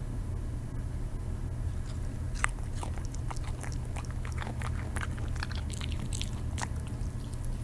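Dog chewing and crunching food. Quick, irregular crunches start about two seconds in, over a steady low hum.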